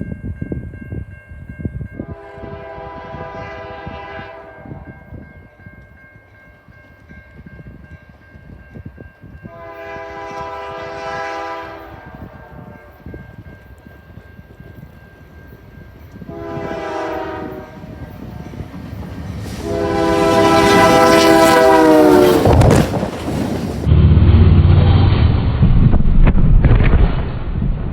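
Diesel locomotive horn sounding the grade-crossing signal: two long blasts, a short one, then a long one. The last blast drops in pitch at its end and is followed by a loud low rumble as the train passes.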